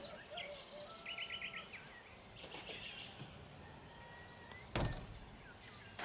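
Birds singing: a quick run of about five short repeated notes, then a few thin whistled notes. Nearly five seconds in, a single thump of a van's rear door being shut.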